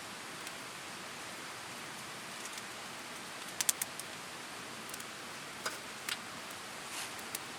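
Wood campfire crackling: a steady hiss with scattered sharp pops, a quick cluster of three about halfway through and a few single pops near the end.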